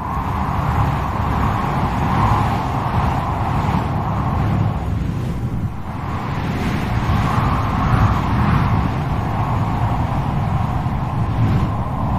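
Strong wind howling and gusting: a whistling moan that swells and fades over a low rumble.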